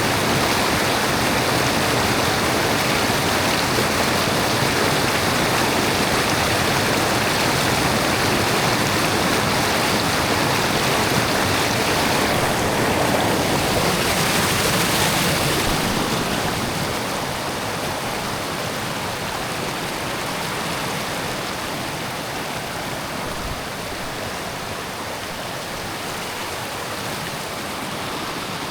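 Steady rush of flowing water, a dense even noise that drops somewhat in level a little past halfway.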